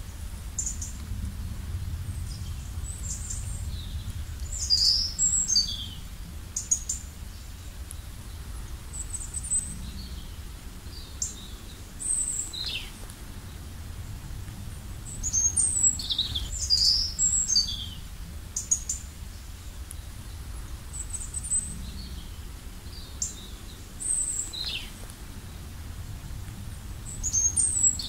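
Songbirds singing: short high chirps and quick falling whistles in clusters every few seconds, over a steady low rumble.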